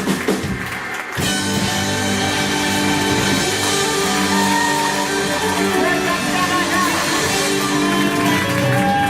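Live band playing a pop-rock cover with guitar. The sound dips briefly about a second in, then the full band carries on.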